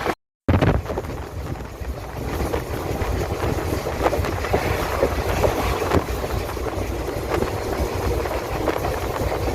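Passenger train running, with a steady low rumble, scattered knocks from the wheels and wind buffeting the microphone. The sound cuts out for a moment just after the start, then carries on.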